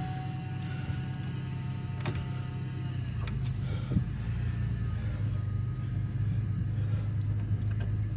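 A 2002 Buick Rendezvous's 3.4-litre V6 idling just after a cold start, a steady hum with a faint steady whine over it; the low rumble gets fuller about three seconds in. The owner calls the whine an annoying noise that survived new power steering and water pumps and goes away once the engine warms up.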